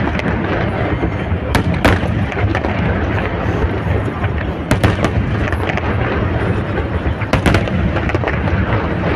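Aerial fireworks display: a continuous rumble of shell bursts with sharp cracks that come in pairs about every three seconds.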